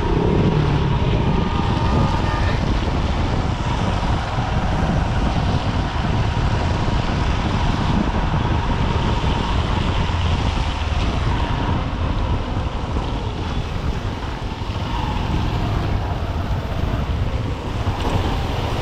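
Steady rush of riding wind over the microphone of a helmet-mounted camera, with the 124 cc single-cylinder engine of a Honda SP125 motorcycle running underneath while riding through traffic.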